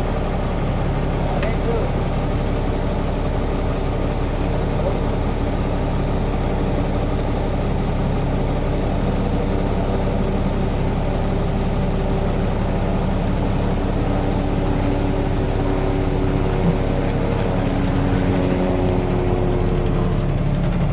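Tractor-trailer's diesel engine running steadily, heard from inside the cab.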